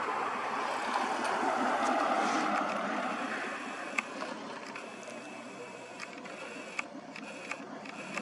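Distant jet airliner, a Boeing 737 MAX, flying high overhead: a broad, distant rush that swells over the first couple of seconds and then fades away. A few faint clicks come in the second half.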